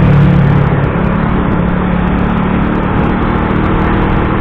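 Motorcycle engine running steadily while riding through traffic, with road and wind noise and the low drone of nearby trucks.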